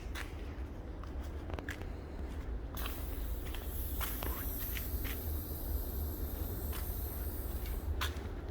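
Low-noise oil-less air compressor, with a steady low hum and scattered clicks and knocks. A high hiss starts abruptly about three seconds in and cuts off near the end.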